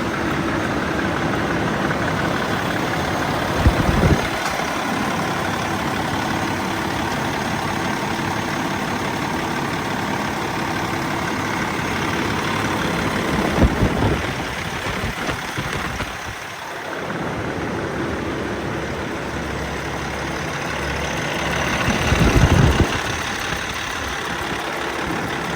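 Cummins ISX 15-litre inline-six diesel engine idling steadily, with three brief louder low bursts along the way.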